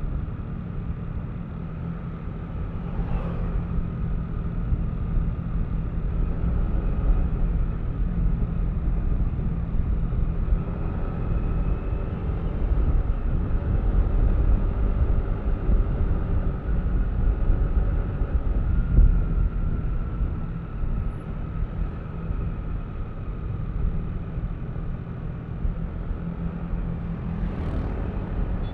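Yamaha Aerox V3 scooter's single-cylinder engine running steadily while riding, a low continuous hum with a thin steady whine above it. Two brief sharp sounds stand out, about three seconds in and near the end.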